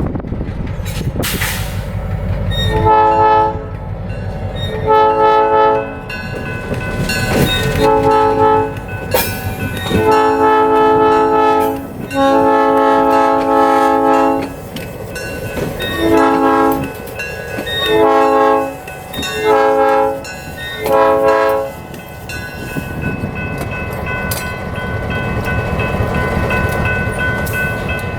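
Nathan P3 air horn on an EMD SW1200 switcher locomotive sounding nine blasts: three short ones, two long ones of about two seconds each, then four short ones in quick succession. Beneath them runs the low rumble of the locomotive's diesel engine and rolling cars, which grows louder after the horn stops.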